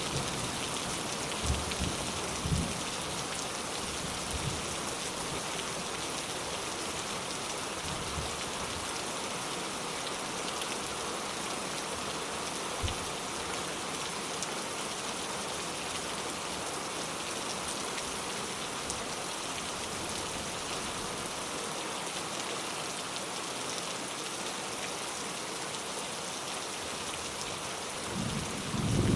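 Steady rain falling, with a few heavier drops knocking now and then in the first half. Near the end a low rumble of thunder starts to build.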